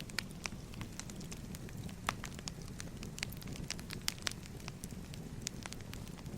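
Wood fire burning: a steady low rumble with frequent irregular crackles and sharp pops.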